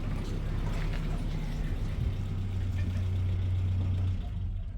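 Car engine running with a steady low hum, cutting off shortly before the end.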